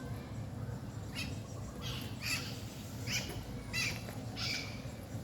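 Birds giving a run of short, harsh calls, one every second or less, starting about a second in, over a steady low rumble.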